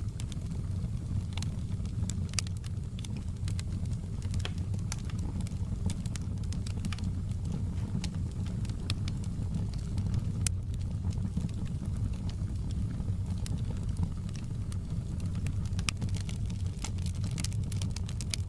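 Wood fire crackling: irregular sharp snaps and pops over a steady low rumble of the burning fire.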